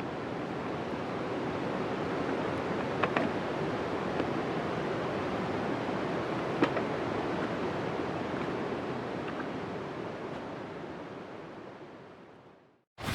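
Wood fire burning in a fire pit: a steady rushing noise with a few sharp crackling pops, fading out near the end.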